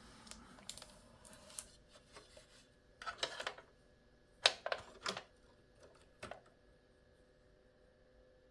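Scattered light clicks and taps of desktop computer parts and cables being handled inside the case, in a few short clusters, the sharpest about four and a half seconds in.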